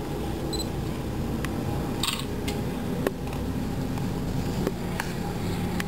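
Steady low mechanical hum, with a few sharp clicks and a brief hiss about two seconds in.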